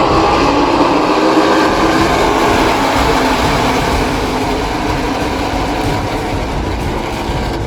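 Race trucks' V8 engines running at speed on the track, a dense steady din of the field that fades slowly.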